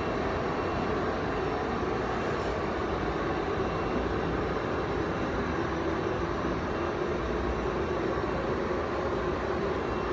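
HTC floor grinder running steadily as it grinds tile adhesive off the floor: an even, unbroken machine noise with a strong low hum.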